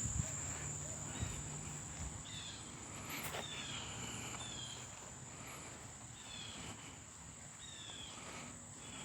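Insects trilling in one steady high tone, with a bird repeating short falling calls about once a second.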